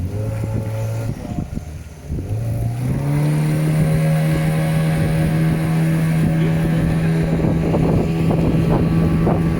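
Motorboat engine running, then opening up about two to three seconds in: its pitch rises and then holds steady at the higher speed.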